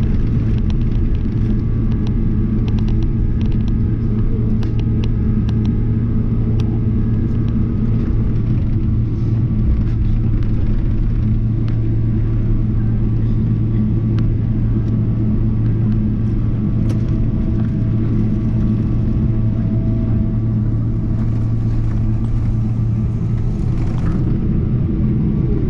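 Cabin noise of a Boeing 777-300ER rolling on the ground after landing: a steady low rumble and hum from the engines at idle and the airframe, with a few light clicks and rattles in the first several seconds.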